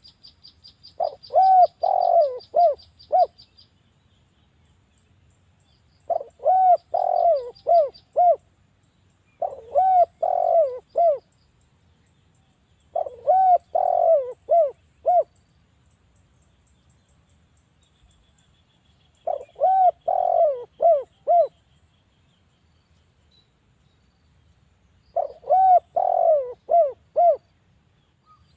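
Spotted dove (derkuku) cooing: six repeated phrases of four or five coos each, with pauses of a few seconds between them. A small bird's rapid, high chirping trill runs under the first phrase and again under the second.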